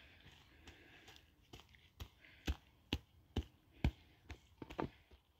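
Hand hoe chopping into damp, crusted soil: sharp strikes, a few at first, then a steady rhythm of about two a second.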